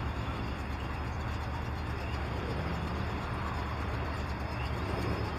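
Car engine idling, a steady low rumble with no change in pitch.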